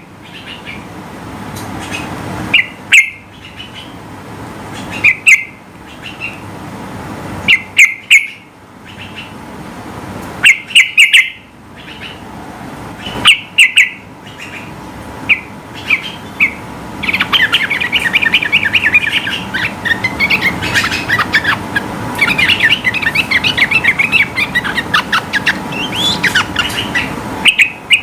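Yellow-vented bulbul singing: loud short phrases repeated every two to three seconds, then from about halfway a long run of rapid chattering notes lasting about ten seconds.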